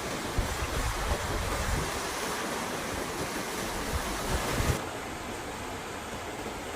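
Storm noise: gusting wind and rushing water, with wind buffeting the microphone in low rumbles. About two-thirds of the way through it cuts abruptly to a steadier hiss.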